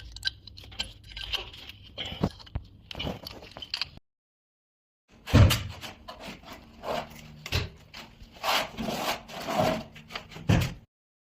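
A hand tool scraping and rubbing over a wall in irregular strokes of uneven length. The sound drops out to dead silence for about a second, four seconds in, then the strokes resume.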